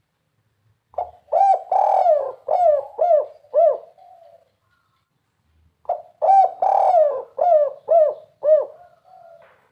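Spotted dove singing the 'kuk 3' song: two phrases, each a quick run of five or six looping coos ending in a softer trailing note.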